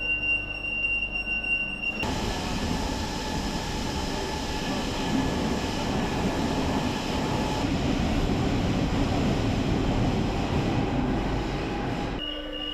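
A Rome Metro line A subway train running: a dense, steady rumble of wheels on rail with a few steady high whining tones over it. About two seconds in, it starts suddenly after a short stretch of a single steady high tone.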